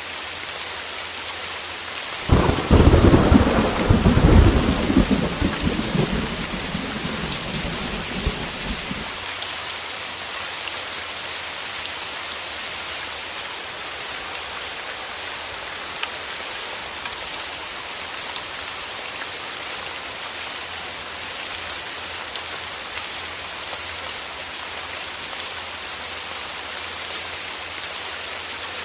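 Heavy rain falling steadily, with a loud thunderclap about two seconds in that rumbles on and dies away over some seven seconds.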